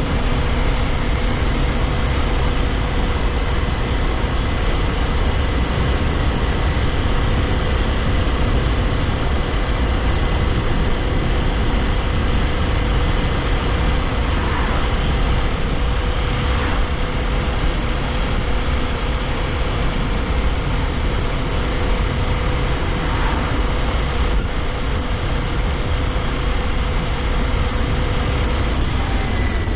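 Kawasaki Ninja 400's parallel-twin engine running at a steady cruise under heavy wind rush on the microphone, its steady note dropping away near the end.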